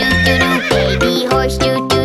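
Bouncy children's-song backing music with a horse whinny sound effect over it: a wavering, trembling call in the first second.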